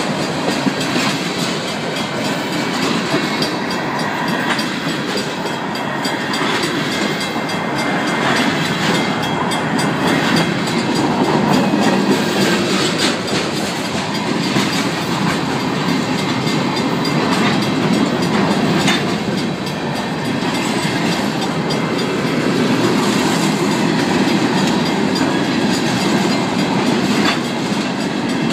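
Freight cars rolling past close by: a steady rumble of steel wheels with irregular clicks over the rail joints and crossing. The crossing's mechanical bells ring faintly underneath.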